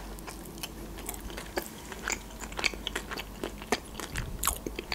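A person biting into and chewing a sushi roll right at the microphone: irregular sharp wet clicks, smacks and crunches of the mouth.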